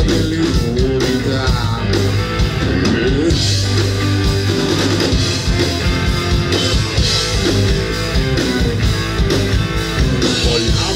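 Rock band playing live, an instrumental passage on electric guitar, bass and drum kit.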